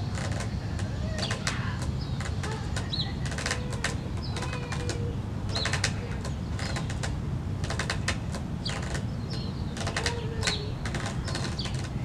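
Small birds chirping and twittering in short irregular bursts of quick clicks and brief chirps, over a steady low rumble.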